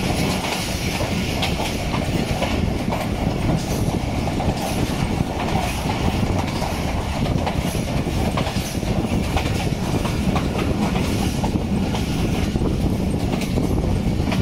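A passenger train's coach running along the track, heard from an open coach window: a steady rumble of wheels on rails, with irregular clickety-clack over the rail joints.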